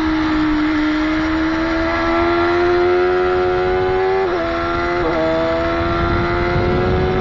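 Motorcycle engine pulling hard at high revs, pitch climbing steadily, with two quick dips a little under a second apart about four and five seconds in as it shifts up gears. Wind noise on the onboard microphone runs underneath.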